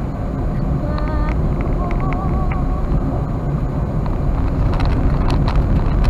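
Steady road and engine rumble of a moving Toyota Wigo, with a faint wavering voice briefly heard about one to two and a half seconds in.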